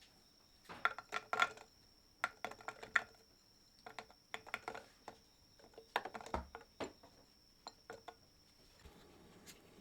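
Light clinks and taps of dishes and cutlery, in several short clusters with brief ringing. A faint steady high-pitched tone runs underneath and stops near the end.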